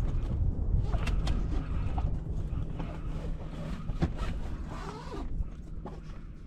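Wind rumbling on the microphone, easing off toward the end, with a few light knocks and creaks.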